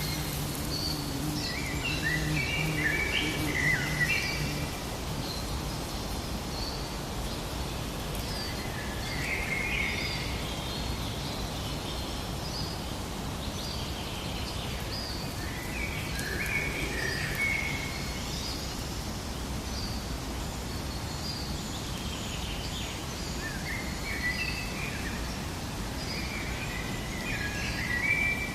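Forest ambience: birds calling in short bursts of chirps and warbles every few seconds over a steady background hiss, with a faint low hum in the first few seconds.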